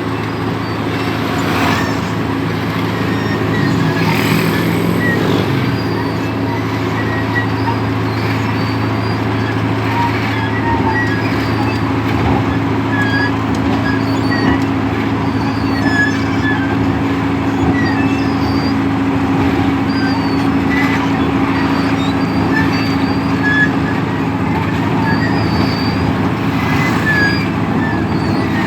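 Asphalt road milling machine at work, its engine running with a steady, unbroken drone and a grinding wash above it.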